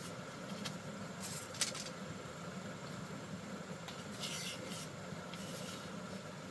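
Three short scrapes over a steady low hum.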